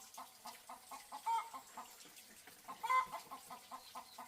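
Chickens clucking: a quick run of short clucks, several a second, with a louder call about a second in and another near three seconds.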